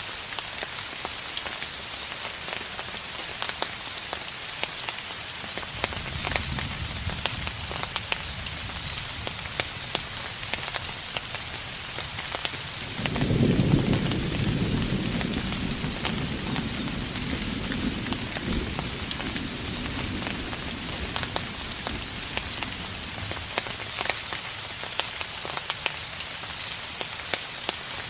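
Steady rain with individual drops ticking, under distant thunder. A low rumble comes in about six seconds in, and a stronger roll of thunder swells about halfway through and slowly fades.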